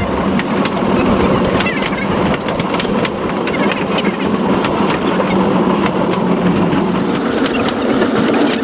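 Old train running along the track: a steady rumble with many irregular clicks and clatters of the wheels on the rails.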